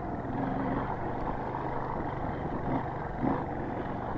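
Street-legal trail motorcycle's engine running steadily at low speed in a low gear on a rough trail, with a few brief louder bumps.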